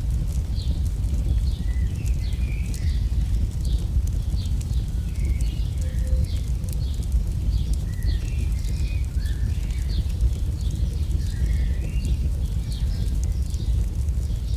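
AI-generated campfire sound: a steady low rumble of burning with many small crackles and pops scattered throughout.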